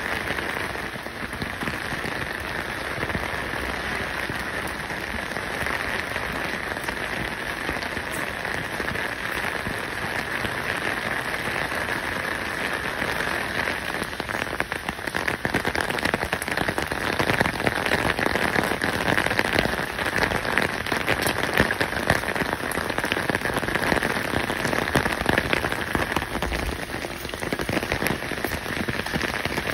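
Steady rain falling, a dense hiss of fine drops that grows a little louder about halfway through.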